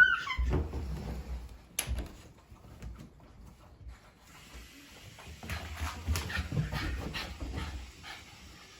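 Shiba Inu dog whimpering amid scuffling and knocks as it dashes around excitedly in a burst of zoomies, with a sharp knock about two seconds in.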